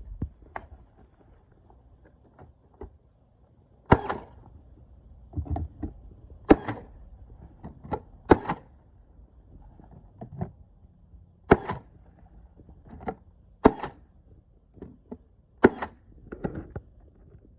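Irregular sharp knocks and taps from siding replacement work: about six louder hits among smaller ones, a second or two apart.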